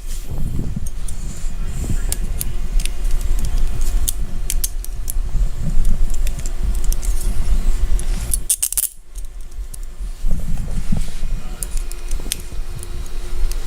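Metal handcuffs being unlocked and taken off, with repeated small metallic clicks and jangling of the key and cuff chain. A low rubbing rumble of handling and clothing against the body-worn microphone runs underneath.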